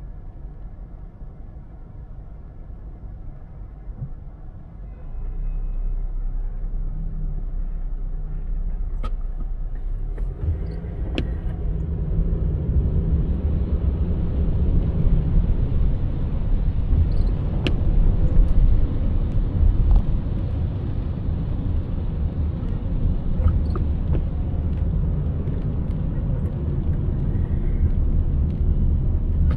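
Car driving: steady low road rumble and tyre noise, stepping up in level about five seconds in and again around ten seconds in. A few faint clicks are heard.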